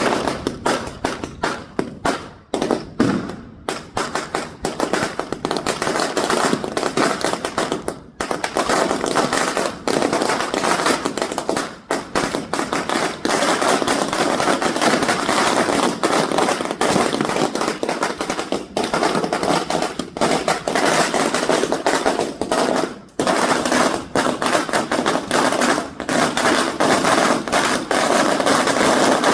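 A 1000-wala string of firecrackers going off: a loud, rapid, continuous rattle of small bangs, with a couple of brief lulls.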